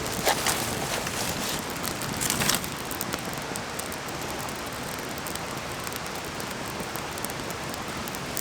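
Steady rushing of a mountain stream, with a few louder crackles and a short hiss in the first three seconds.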